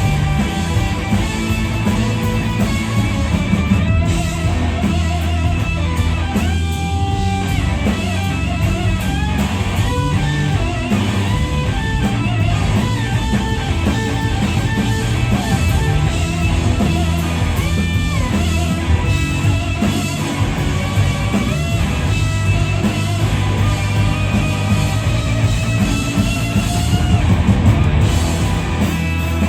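Live blues-rock band playing an instrumental passage: an electric guitar lead with sustained, bent notes over bass and drums.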